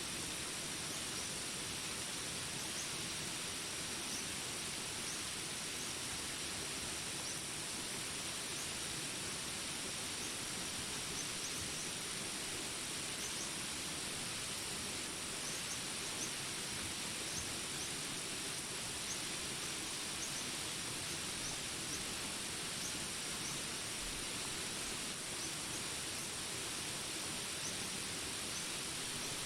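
Steady rain falling in a jungle ambience: an even hiss with no change in level. Above it run a steady high tone and scattered short high chirps from jungle wildlife.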